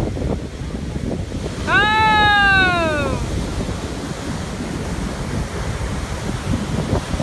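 Indian Ocean surf washing in, with wind buffeting the microphone. About two seconds in, a single high-pitched voice calls out for about a second and a half, its pitch rising slightly and then falling away.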